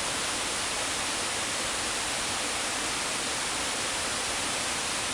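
Flowing river water rushing, a steady, even hiss.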